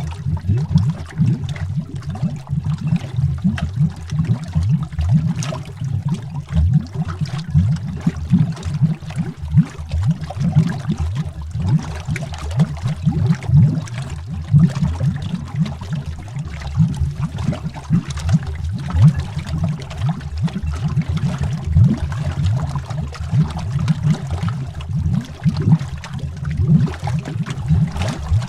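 Underwater bubbling: a continuous stream of bubbles rising and popping, heard as a deep, busy gurgle with many quick, irregular bursts.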